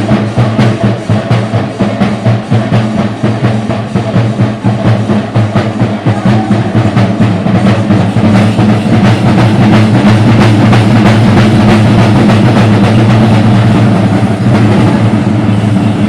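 Chenda drums of a temple thira festival beating fast, many strokes a second, thickening into a dense continuous roll about halfway through.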